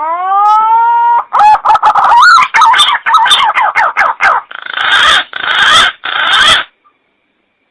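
Green pigeon (punai) call: a rising whistled note, then a run of quick warbling notes, ending in three harsh rasping bursts.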